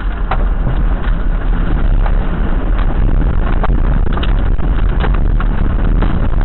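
Steady low rumble of a vehicle on the road, as picked up by a dashcam, with scattered light clicks throughout.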